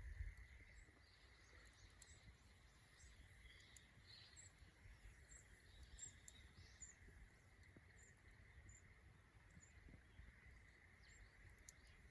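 Near silence: faint outdoor ambience with scattered soft bird chirps.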